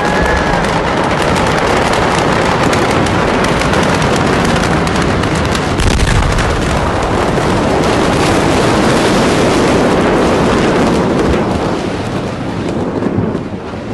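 Loud, dense crackling and popping of a fire full of bursting fireworks and small explosions, with a heavier thud about six seconds in. It eases off near the end.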